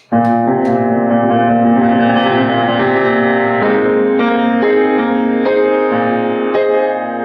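Piano playing a loud chordal tremolo passage that starts suddenly, with the chords shifting every second or so.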